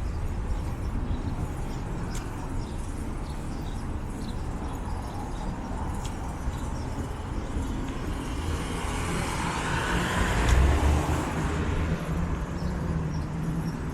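Street traffic with a steady low rumble, and one vehicle passing close by that swells to its loudest about ten seconds in, then fades.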